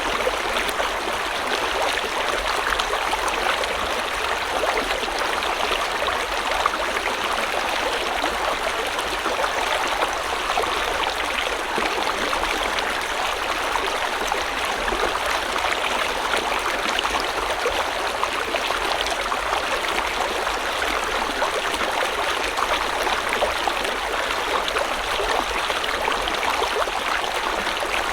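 River water flowing steadily over rocks, a continuous rushing and splashing babble with no pauses.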